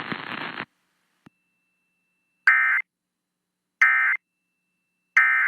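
Emergency Alert System end-of-message signal on a radio broadcast: three identical short bursts of digital warbling data tones, about a second and a half apart, marking the end of the severe thunderstorm warning. Radio hiss cuts off about half a second in, just before them.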